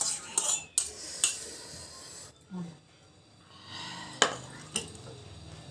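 Cutlery clinking and scraping against a plate of noodles during eating, with a few sharp clinks in the first second or so and two more about four seconds in.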